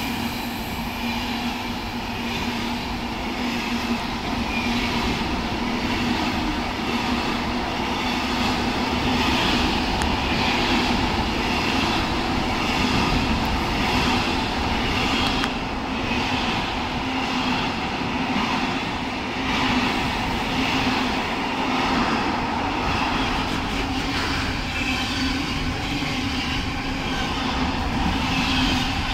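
Container freight train's flat wagons rolling past at speed: a steady, continuous rumble and rattle of steel wheels on the rails, with a constant low hum underneath.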